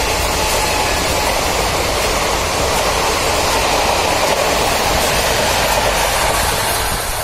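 Train running past close below, a steady loud rush of wheels and wagons on the rails, easing a little near the end as the last wagons draw away.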